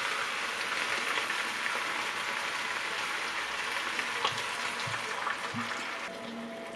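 Food sizzling and crackling in hot oil in a pan. A few light knocks come about four to five and a half seconds in, and the sizzle quietens near the end.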